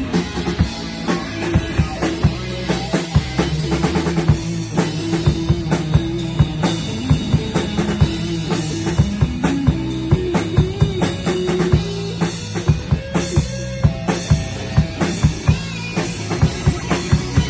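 Live rock band playing: a drum kit with bass drum and snare hitting in a steady rhythm over sustained instrument notes.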